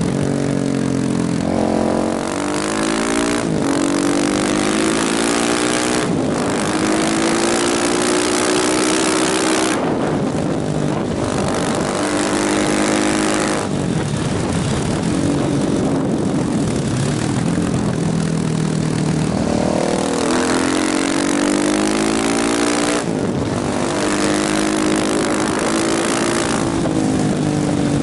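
KTM motorcycle engine pulling hard and rising in pitch, with a break and a drop in pitch at each gear change, several times over, under steady wind rush.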